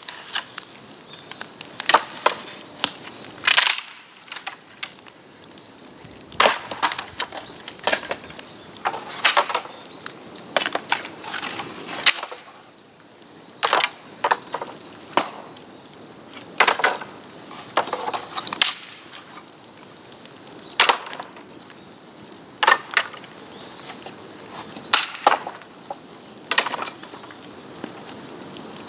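Bamboo burning in an open bonfire: a steady low crackle broken by many sharp, irregular cracks and pops.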